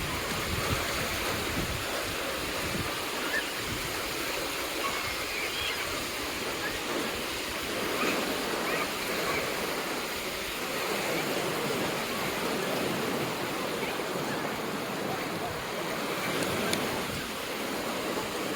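Waves breaking and washing on a sandy beach, a steady rush of surf.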